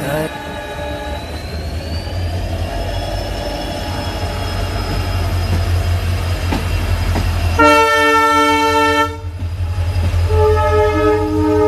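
A train running by with a steady low rumble and a faint high whine that rises about two seconds in, then the locomotive's horn sounds twice: a blast of about a second and a half, then a second blast near the end.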